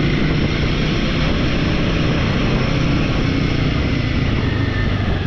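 Royal Enfield motorcycle under way, its engine running steadily under a constant rush of wind and road noise.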